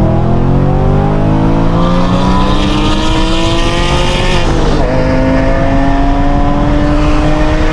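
BMW M3 engine accelerating, its pitch climbing steadily through one gear. It dips briefly at an upshift about four and a half seconds in, then climbs again in the next gear.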